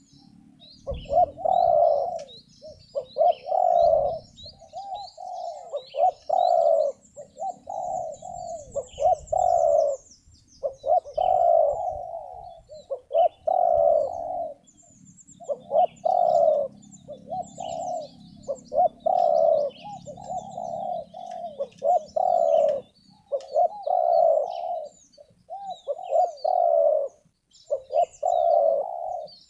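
Spotted dove (terkukur) cooing over and over in repeated phrases, a sharp, clear voice of the kind Malay bird-keepers call mersik. Small birds chirp faintly in the background.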